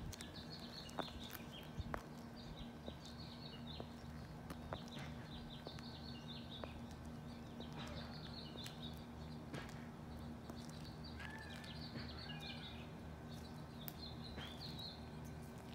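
Small birds chirping in short, repeated high calls throughout, over a steady low hum and a few faint clicks.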